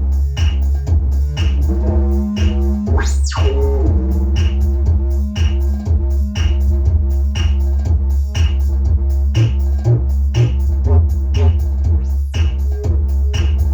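Instrumental electronic dance music: a heavy, continuous bass under a steady drum-machine beat and held synth chords, with a synth sweep rising sharply in pitch about three seconds in.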